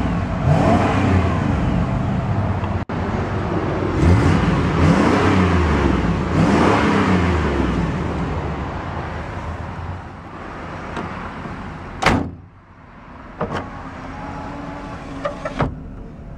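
A 1994 GMC Vandura's 350 cubic inch (5.7 L) V8 is revved several times, its pitch rising and falling with each blip, then settles back to a steadier idle. A single sharp click or knock comes about 12 seconds in, followed by a couple of lighter clicks near the end.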